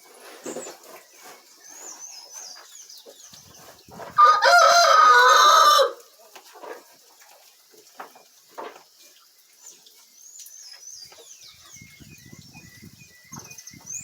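A rooster crows once, loud, for under two seconds about four seconds in, with faint high chirping around it.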